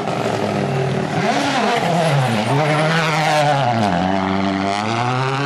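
Rally car engine driven hard, its note climbing and dropping repeatedly through gear changes and throttle lifts, with sharp dips about one, two and four seconds in.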